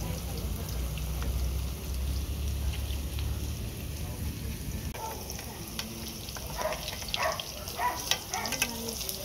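Tofu slices frying in shallow oil, sizzling steadily, while a metal spoon scoops the hot oil over them. Sharper crackles and clicks come thicker in the last few seconds.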